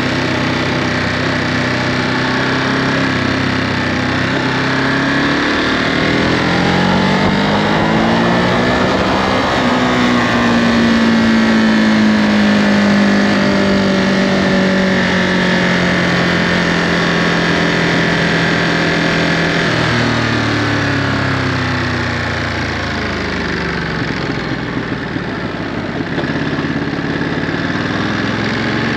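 Ducati Monster 937's Testastretta 11° 937 cc L-twin through its stock Euro5 exhaust, riding on the road: revs climb and fall through the gears, hold fairly steady for a stretch in the middle, and drop sharply a little past two thirds of the way through before picking up again.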